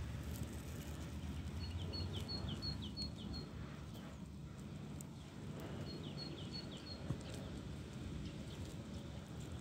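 A small bird calling in two quick runs of short falling chirps, about six notes, then about four more a few seconds later, over a steady low outdoor rumble.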